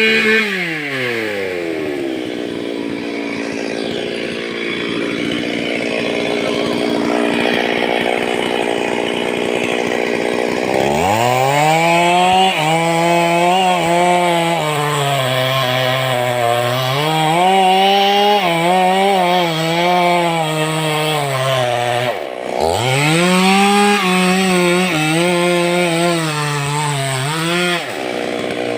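Stihl two-stroke chainsaw: its revs fall away at the start, then it is throttled up again about ten seconds in and cuts into wood, the engine pitch dipping and recovering as the chain bites. The engine drops off for a moment about two-thirds of the way through, revs back up to cut again, and settles to a lower speed near the end.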